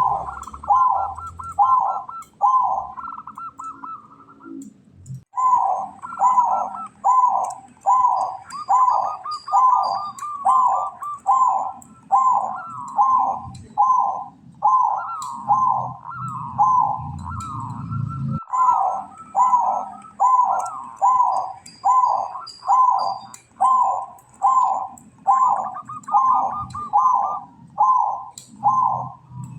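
Zebra dove (perkutut) cooing in a long rapid series of about two notes a second, some stretches carrying a fine rattling trill on a higher note, with a brief pause about four seconds in. Faint high chirps from another small bird sound alongside.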